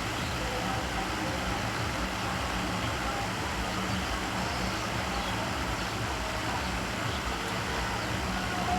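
Steady background noise with a low hum and no distinct events.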